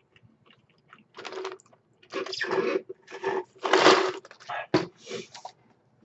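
Close-up chewing of a mouthful of crispy fried chicken sandwich: a run of loud, crackly crunches from about one to five and a half seconds in.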